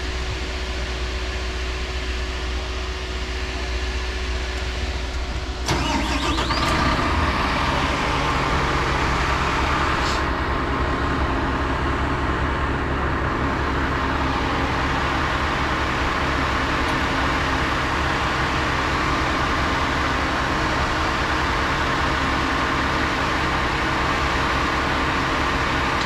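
Truck engine: a steady low hum, then about six seconds in the engine comes up louder with a brief rising sweep and settles into a steady run. A single click about ten seconds in.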